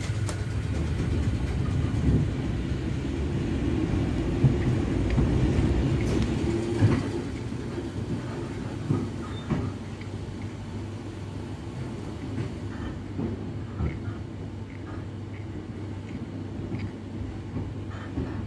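Cabin noise of a Merseyrail Class 508 electric multiple unit running on the track: a steady low rumble with scattered clicks and knocks from the wheels over rail joints. The rumble is louder for the first several seconds, then settles quieter.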